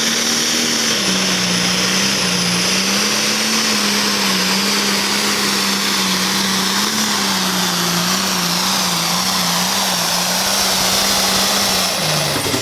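Pulling vehicle's engine at full throttle under heavy load during a pull. The engine note holds high and wavers slightly under a dense roar, with a high whine that slowly falls in pitch, and the engine note drops off near the end as the pull finishes.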